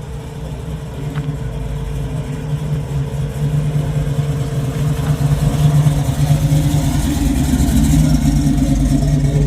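Car engine running with a steady low note, getting steadily louder, with a higher band coming in over the second half as it draws nearer or picks up revs.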